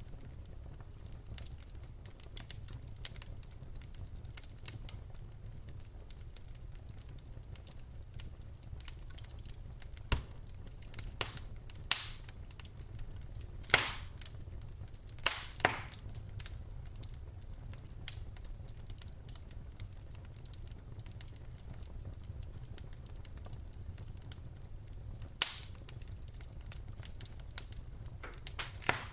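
Wood fire burning in a fireplace: a steady low rumble with scattered crackles and a few sharp louder pops from the logs, the biggest cluster a little before halfway.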